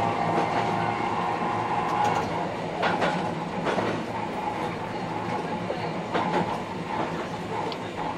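Electric train running sound dubbed over the drive: a steady rolling rumble with occasional clacks of wheels over rail joints.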